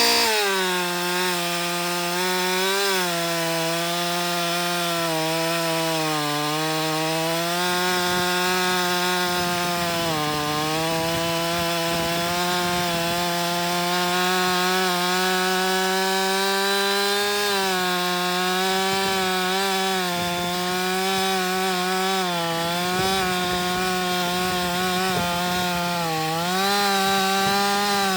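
Two-stroke chainsaw held at full throttle, cutting through a log with a hand-filed chain whose rakers are set down to the softwood setting. Its pitch sags and recovers several times as the chain loads up in the wood.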